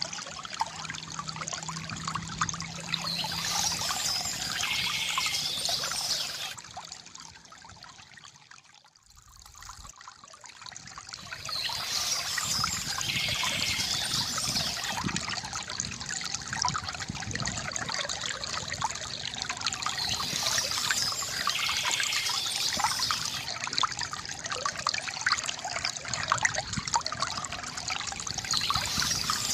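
Water trickling and gurgling from a bamboo fountain, a continuous splashing patter. It fades down to a low point about a third of the way in, then swells back up.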